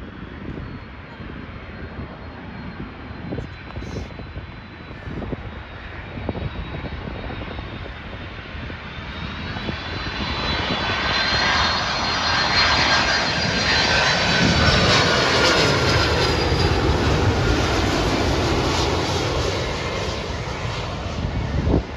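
UPS Boeing 767-300 freighter on final approach passing close by: the jet engine noise builds over about ten seconds to a loud whine with high whistling tones that drop slightly in pitch as it goes past, then begins to fade. Wind buffets the microphone in the first seconds, and a short knock comes near the end.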